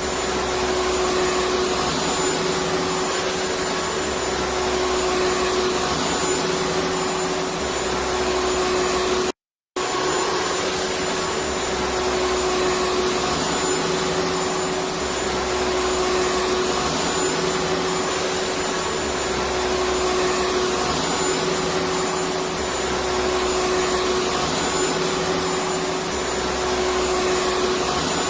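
Vacuum cleaner motor running steadily with a constant hum and a slow, low pulsing underneath. The sound cuts out completely for a fraction of a second about nine seconds in, then carries on unchanged.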